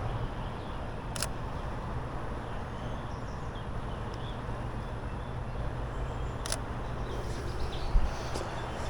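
Shutter of a Sony ZV-E10 mirrorless camera clicking twice, about five seconds apart, over a steady low outdoor rumble.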